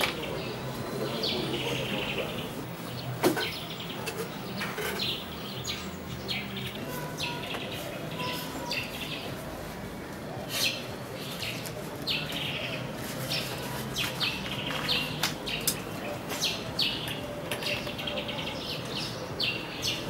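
Small birds chirping in short repeated calls throughout, with a sharp click about three seconds in.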